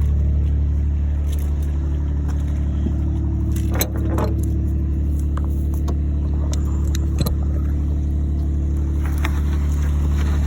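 Steady low engine-like drone, with a few sharp metallic clinks about four seconds in and again about seven seconds in, as tools and bolts knock against metal.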